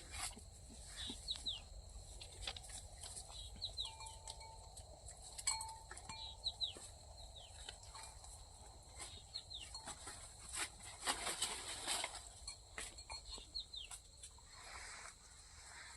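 Goats grazing outdoors. Scattered clicks and rustles run through it, with repeated short high chirps and a louder rough call about eleven seconds in.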